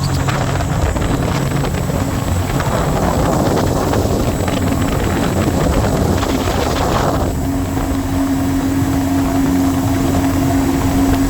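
A Scarab 165 ID jet boat's three-cylinder Rotax 1503 4-TEC engine running underway, with the rush of wind and water. About seven seconds in, the rushing hiss drops away and a steady engine drone remains.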